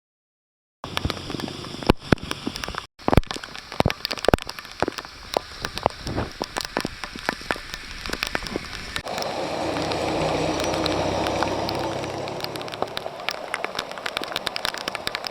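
Rain falling, with many sharp crackling taps of drops on the camera or microphone; the sound starts after about a second of silence. About nine seconds in, a steadier, louder swell of noise rises for about three seconds and fades.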